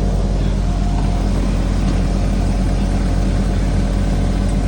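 1/8-scale ridable miniature locomotive running, a steady mechanical drone with a constant low hum.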